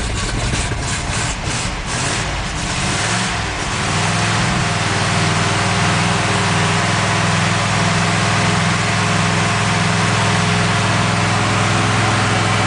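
1954 Ford Mainline's 292 Y-block V8 running cold on full choke: rough and uneven for the first few seconds, then settling into a steady fast run. The cold engine needs the choke all the way out to keep running and won't yet idle.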